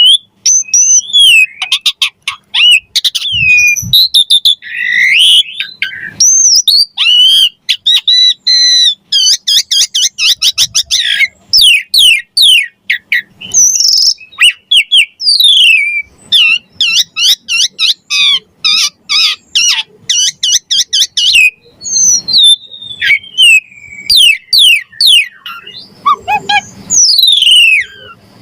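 Javan pied starling (jalak suren) singing hard in full song. Long varied phrases of whistles that glide up and down are broken by fast rattling runs of sharp, clicky notes.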